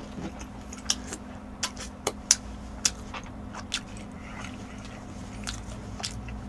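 A person chewing a piece of tangsuyuk, Korean battered deep-fried pork dipped in sauce, close to the microphone. Sharp, irregular crunches come mostly in the first four seconds, with another near the end, over a faint steady low hum.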